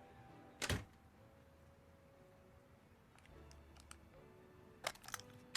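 Faint background music with held notes, broken by a single sharp knock about half a second in and a few light clicks near the end.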